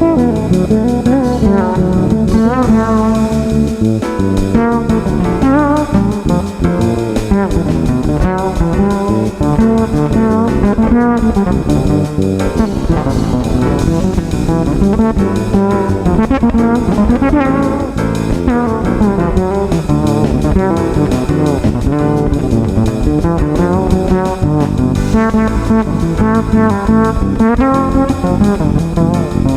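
Fretless bass guitar playing a melodic jazz line over a backing track with drums.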